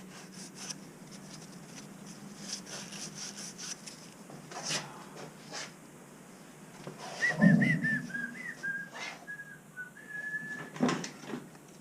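A person whistling a few wavering notes, ending on a held note, over light clicks and taps of parts and tools being handled, with a thump just before the whistling starts.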